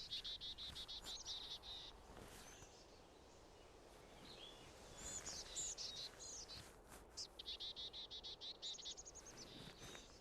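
A small songbird singing faintly: three phrases of rapid, high trilled notes, at the start, about five seconds in and again near the end, with single short chirps in between.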